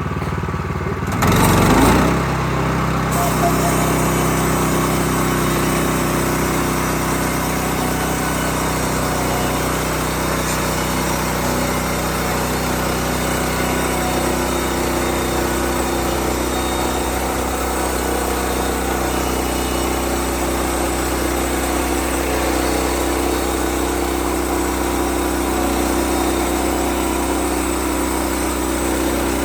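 Bushlander HM122 portable band sawmill's petrol engine picking up speed about a second in, then running steadily at a constant pitch.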